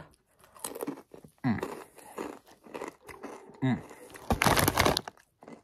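Crunching and chewing on Takis Nitro rolled tortilla chips close to the microphone, with irregular crackly bites, and a louder, longer burst of noise lasting under a second about four and a half seconds in.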